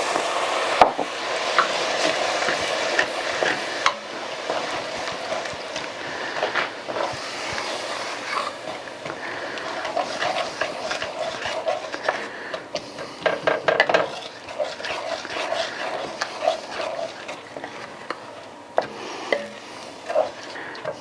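Beef broth sizzling in a hot pan as a utensil stirs and scrapes the bottom to deglaze it. The sizzle dies down about four seconds in, leaving a softer simmer with scattered scrapes and clicks of the utensil against the pan.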